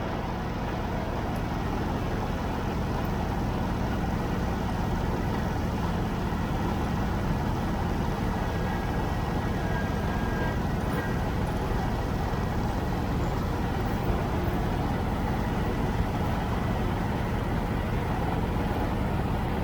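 Tractor engine running steadily along with continuous rumbling motion noise, with no break or change.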